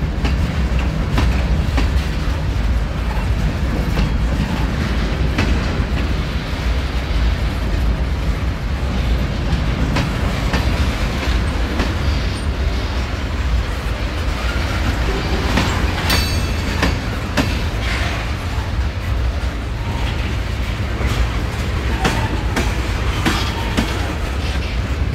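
Freight cars of a mixed manifest train rolling past: a steady rumble of steel wheels on rail, with scattered clicks as the wheels cross rail joints. About sixteen seconds in there is a brief high wheel squeal.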